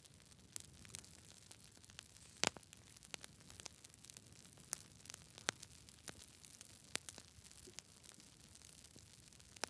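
Campfire crackling: irregular sharp pops and snaps of burning wood over a faint steady hiss, the loudest pop about two and a half seconds in.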